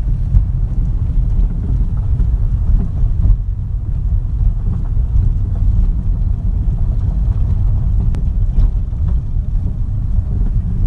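Steady loud low rumble with no clear pitch and no speech.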